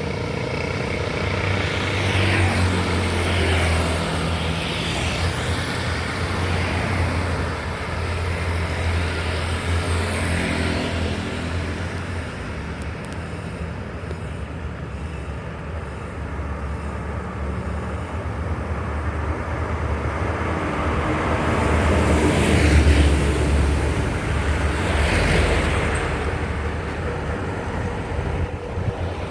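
Road traffic passing close by: a low, steady engine drone from heavy vehicles, with several vehicles swishing past one after another. The loudest pass comes a little over two-thirds of the way in.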